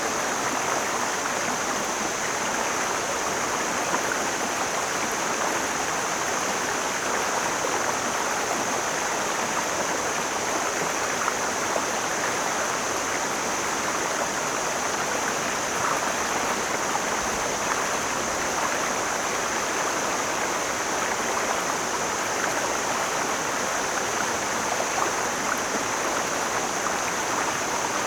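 Mountain stream flowing: steady rushing water, strongest in the middle range, with an even high hiss above it.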